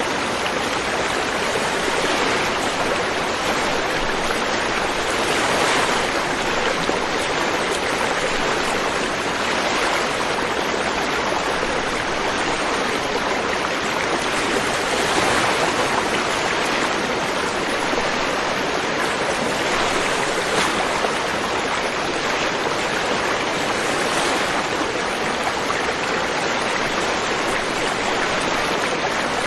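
River water flowing: a steady rush of running water with slight swells every few seconds.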